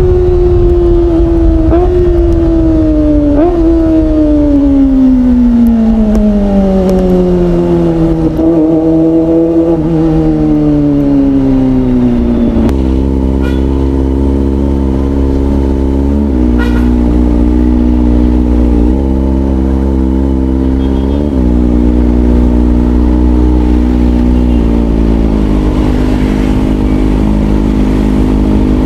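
Kawasaki ZX25R's 249 cc inline-four through an aftermarket Orion exhaust, its engine note falling steadily as the bike slows, with a couple of brief rises along the way. It then settles into a steady low running note, broken by a few short throttle blips.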